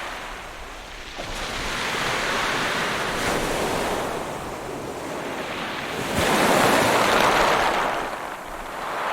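Ocean waves breaking on a shore: a rushing surf wash that swells and recedes, with a fresh wave crashing in about six seconds in.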